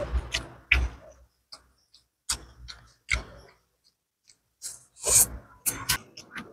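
Eating sounds from a mouth chewing fried gourami and rice: a string of short smacks and clicks with quiet gaps between them, a few louder ones near the end.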